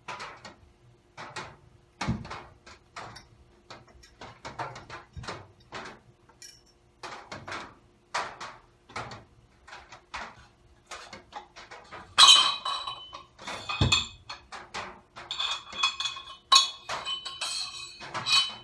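Metal dirt bike suspension parts being handled and taken apart: a string of irregular knocks and clicks, with ringing metal clinks from about two-thirds of the way in.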